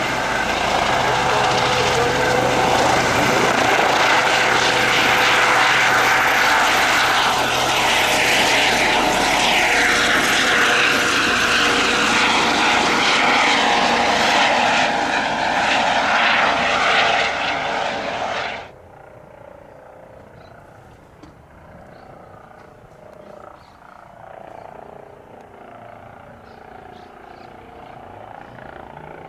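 Airbus H135 twin-turbine helicopter running close by, a loud steady turbine whine and rotor noise with pitch shifting slightly in the middle. It cuts off suddenly about two-thirds of the way in, leaving much quieter background noise.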